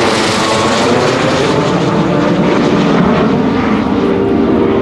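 Jet engines of an F-15 Eagle and an F-86 Sabre flying in formation, a loud, steady rushing noise.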